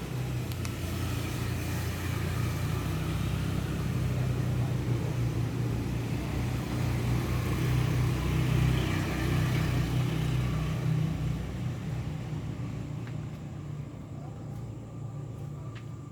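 Low engine rumble of a passing motor vehicle, growing louder to a peak about halfway through and then fading away.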